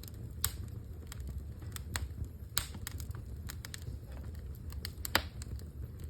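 Fire crackling: irregular sharp pops and snaps over a low steady rumble, with the loudest pop about five seconds in.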